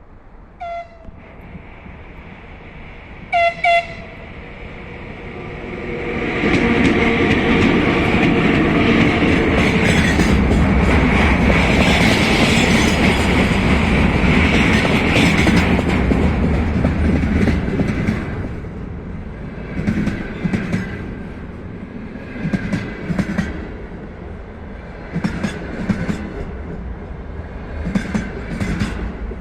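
VL10u electric locomotive sounding short horn toots, then passing close with a loud rush of running gear and wheels. The container wagons follow with a rhythmic clickety-clack of wheelsets over the rail joints.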